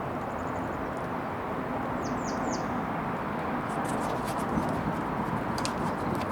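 Wood bonfire burning with a steady rushing noise, crackling and popping from about four seconds in. A small bird chirps three quick falling notes about two seconds in.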